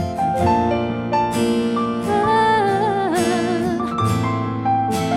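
Instrumental interlude of a gospel worship song played live: keyboard chords with a sustained melody line that wavers in pitch about two to four seconds in.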